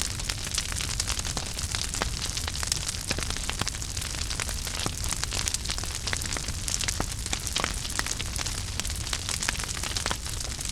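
Wood fire burning in a fireplace, crackling and popping with many small irregular snaps over a steady low rumble and hiss.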